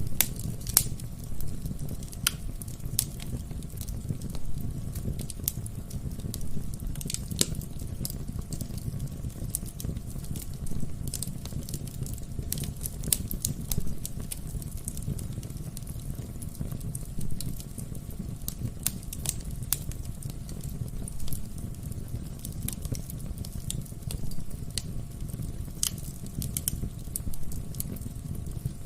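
Wood fire burning in a fireplace: a steady low rumble of the flames with irregular sharp crackles and pops from the burning logs, several a second at times.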